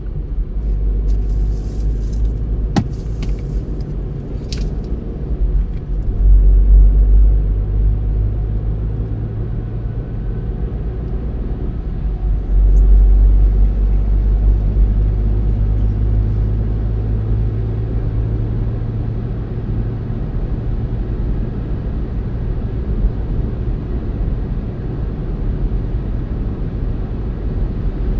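Car driving along a road: a steady low rumble of tyres and engine that swells louder twice, with a few sharp clicks in the first few seconds.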